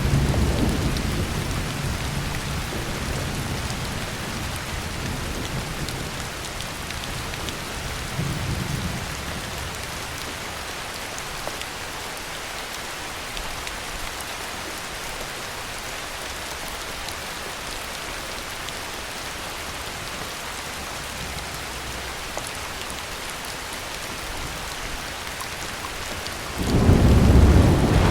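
Heavy rain falling steadily, with a low roll of thunder fading away over the first few seconds. Near the end, a sudden loud thunderclap breaks in and rumbles on.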